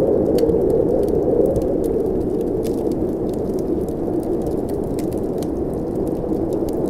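Blizzard wind blowing steadily, with the scattered small crackles and pops of a wood fire.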